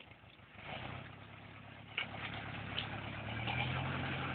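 Forestry tractor engine running, getting louder from about half a second in, with a sharp knock about two seconds in.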